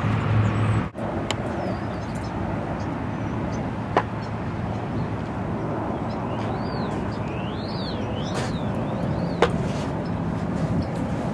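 Steady outdoor noise of road traffic. A few short, high, rising-and-falling chirps come about two-thirds of the way through, and two sharp clicks sound.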